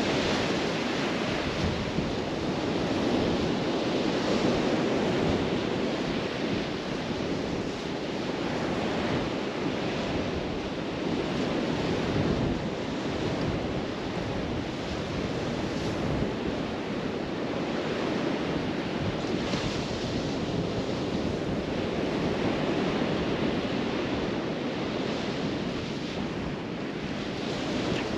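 Surf washing onto a beach, a steady rushing that swells and eases every few seconds, with wind buffeting the microphone.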